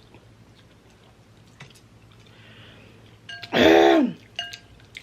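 A short, loud vocal cry falling in pitch, about three and a half seconds in, a wordless reaction to the burn of very spicy noodles.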